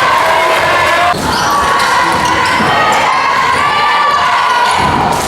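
Basketball game sounds: a ball bouncing on a gym floor with knocks throughout, over shouting voices of players and crowd.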